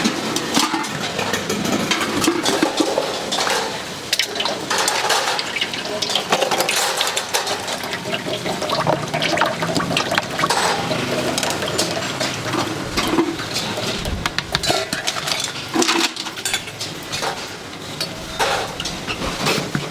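Metal pots and utensils clattering and knocking again and again at a food stall, with liquid being poured and sloshing.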